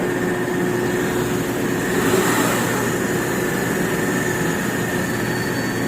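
Mercedes-Benz S500's V8 engine idling steadily, running now that a replaced starter has cured its no-crank fault.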